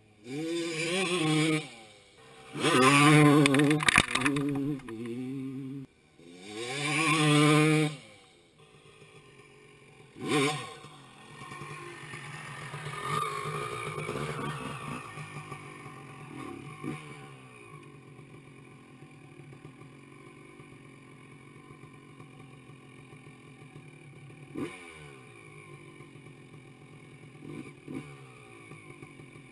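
250cc two-stroke dirt bike revved hard in three long bursts, its pitch rising and falling, as it spins the rear wheel to throw up dirt. After that the engine swells once more and fades, then runs on lower and fainter.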